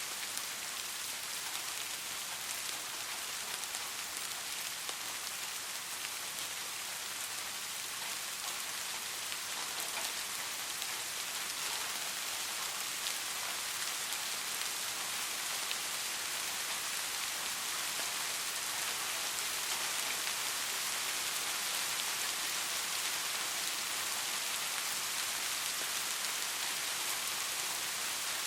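Steady rain falling, an even hiss of many drops with fine individual drop ticks.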